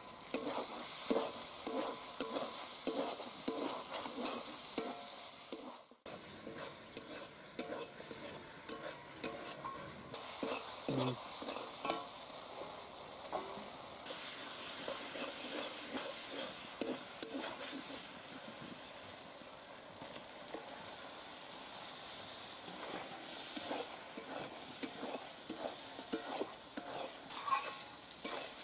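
Masala and tomatoes frying in oil in a metal kadai, sizzling, while a metal spatula stirs and scrapes against the pan with many short clicks. From about halfway the sizzle gets louder as chicken pieces are added and stirred in.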